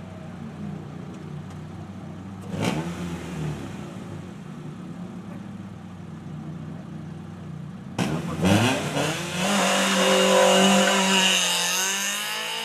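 Hill-climb race car engines: one car revving and pulling away, then from about eight seconds in a second, louder car revving hard through the gears as it passes close.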